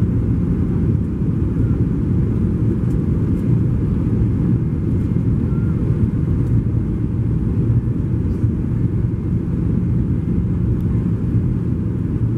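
Steady low drone of a Boeing 737-800's CFM56-7B jet engines and airflow, heard inside the passenger cabin.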